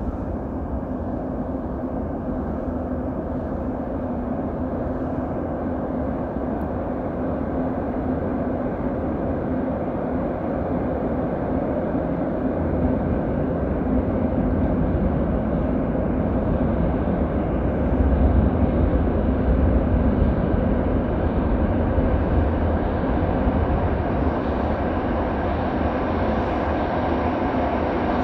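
Rumble of a passenger train approaching through the tunnel into an underground station, growing gradually louder, over a steady hum.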